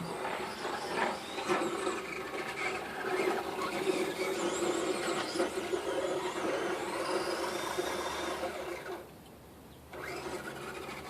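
The electric motor of a radio-controlled car whines as it drives, and drops away for about a second near the end before picking up again.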